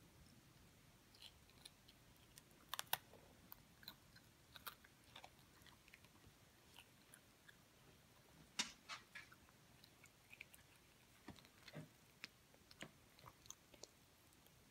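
Faint, scattered small crunches and clicks of a toddler chewing Lucky Charms cereal, the loudest about three seconds in and again about nine seconds in.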